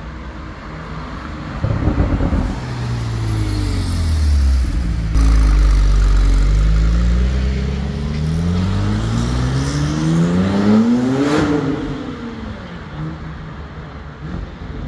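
Porsche 911 flat-six accelerating hard: a loud rev about two seconds in, then the engine note climbs steadily through a long pull, peaking about eleven seconds in before dropping away.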